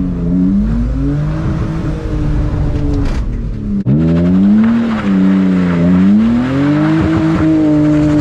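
BMW E46 325ci's inline-six engine with header-back exhaust, driven hard with its revs swinging up and down several times. About four seconds in the revs drop sharply and climb again.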